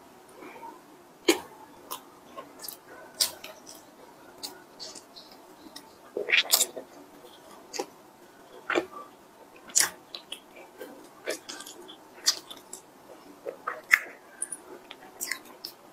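Close-miked eating sounds: chewing and sharp, wet mouth clicks at irregular intervals, with a longer, louder burst a little before the middle, and the soft tearing of a cream-filled bun being pulled apart by hand.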